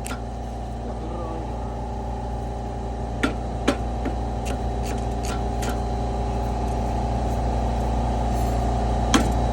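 A steady mechanical hum that slowly grows louder, with a few sharp metallic taps or knocks scattered through it.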